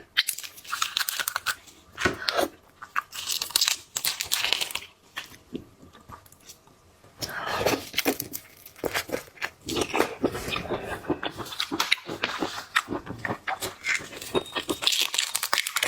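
Peony shrimp being peeled and eaten close to the microphone: crackling and tearing of shell with crunchy chewing. There is a quieter pause about five seconds in.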